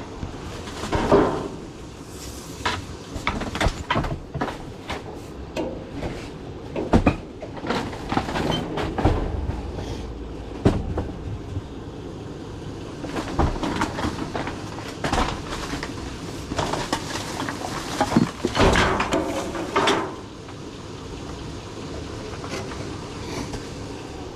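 Scrap being handled and loaded, with irregular clanks, knocks and rattles, thickest between about 1 and 20 seconds, over a steady low rumble.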